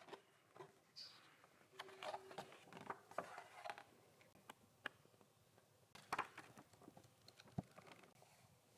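Faint, irregular small taps, clicks and rustles, with a single sharper knock near the end.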